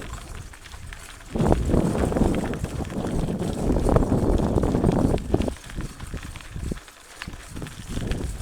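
Mountain bike rolling over a rough dirt and rock trail: tyres crunching and rumbling, with the bike rattling and knocking over bumps. It grows louder after about a second and eases off past the halfway point.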